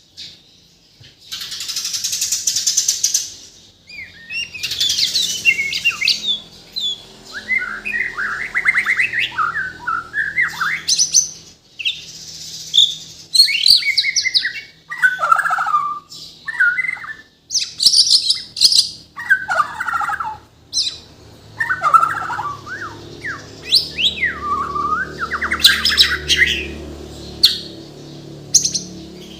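Bornean white-rumped shama (murai batu) singing a loud, varied song: short phrases of sweeping whistles, fast trills and chattering notes, one after another with brief pauses between them.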